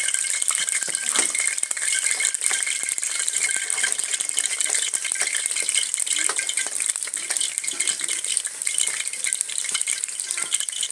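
Light drizzle pattering: a dense, irregular run of small ticks over a steady high hiss.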